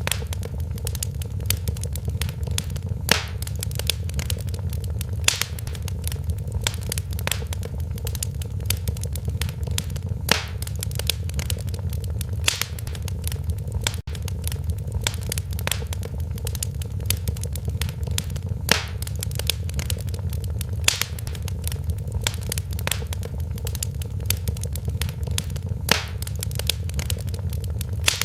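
Fireplace crackling: a steady stream of small crackles with sharper, louder pops every couple of seconds, over a steady low rumble.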